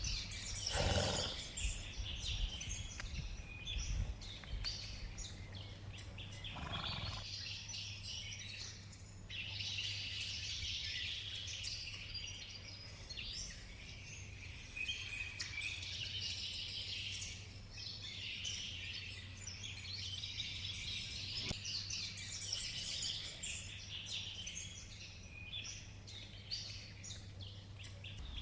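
Rainforest ambience: a dense, continuous chorus of many birds chirping and trilling, over a steady low hum.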